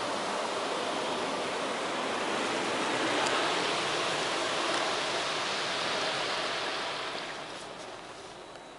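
Automatic car wash spraying water onto the car, heard from inside the cabin: a steady rushing hiss that swells slightly in the middle and fades away over the last couple of seconds.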